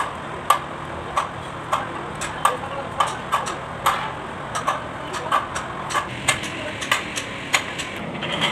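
Repeated light, sharp taps or knocks, irregular at about two a second, from hand tools working on a tractor engine under repair.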